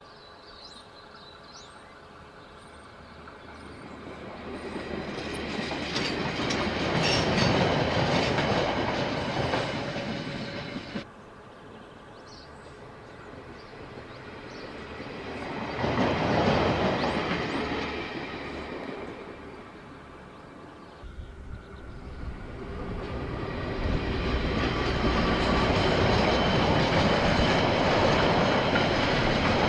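KiwiRail trains passing on the line, their wheels clattering over the rails as each swells louder and then fades. The sound cuts off abruptly twice as one pass gives way to the next.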